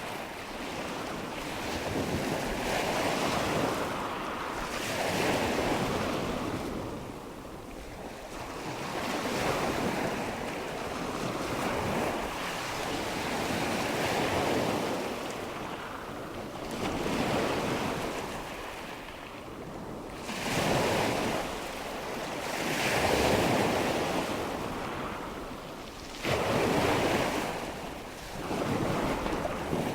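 Nature-sound ambience of rushing water and wind, a steady rush that swells and fades every two to four seconds.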